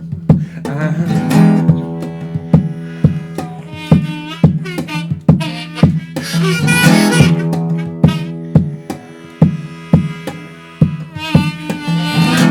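Instrumental break in an unplugged song: acoustic guitar strummed in a steady percussive rhythm, with a wordless lead melody that bends in pitch over it.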